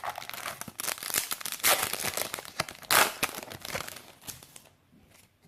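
A Yu-Gi-Oh booster pack wrapper crinkling and tearing as it is opened by hand, stopping about four and a half seconds in.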